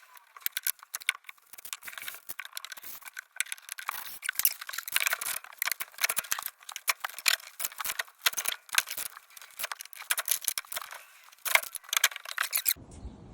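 Small metal parts and hand tools clinking and rattling in quick, irregular clicks. Near the end it breaks off and gives way to a low rumble.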